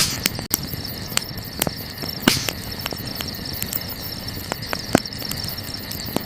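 Wood campfire crackling, with irregular sharp pops and snaps, the loudest about two seconds in, over a steady high chorus of night insects.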